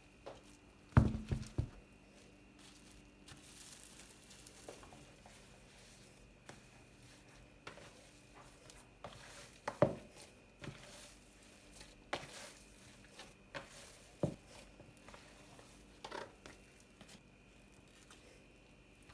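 Kitchen handling sounds: scattered knocks and clatters, the loudest a quick cluster about a second in, with brief crinkling of plastic or paper.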